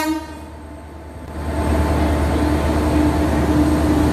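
A train horn cuts off just after the start, then the rumble of a train running along the tracks builds up and holds steady, with a faint steady tone under it.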